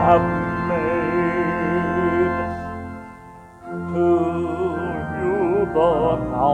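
A hymn sung with organ accompaniment: voices with vibrato over sustained organ chords. The singing dips and pauses briefly about halfway through, between phrases, then carries on.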